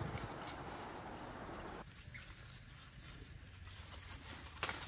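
A small bird giving short, high chirps that fall in pitch, about one a second, over a soft rustle that fades about two seconds in. A sharp snap near the end as a bitter gourd is pulled off its vine.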